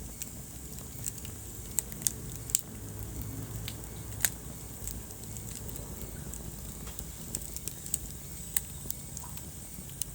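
Wood fire crackling in a fireplace: irregular sharp pops and snaps, a few louder ones in the first half, over the steady low rumble of the burning logs.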